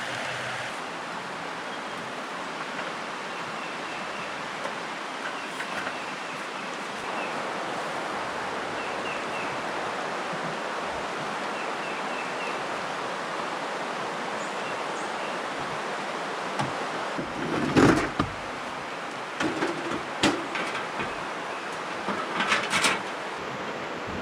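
Steady rush of flowing stream water, with a few faint high chirps in the first half. Several sharp knocks and thumps in the last several seconds.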